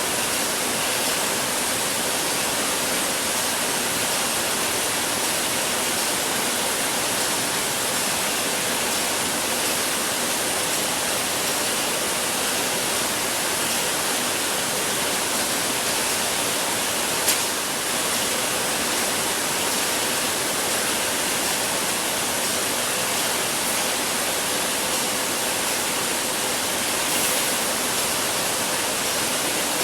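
Steady hiss and whir of bottled-water production line machinery, with a faint steady hum. There is one short click about 17 seconds in.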